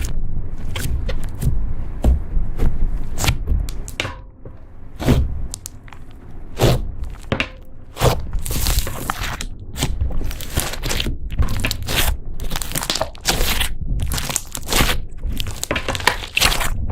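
Slime being squeezed and pressed by hand, giving an irregular run of crackling clicks and crunchy pops. They come sparsely at first and crowd together in the second half.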